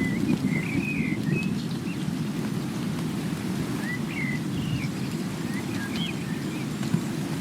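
Steady rain with a low rumble beneath it, and a songbird calling in short quick phrases of rising and falling chirps several times over.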